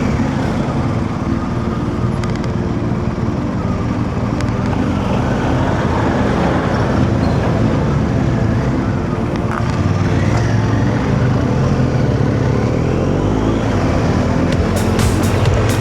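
Motorcycle engine running steadily on the move, heard from a helmet-mounted mic with wind and road noise, its pitch rising and falling a little now and then.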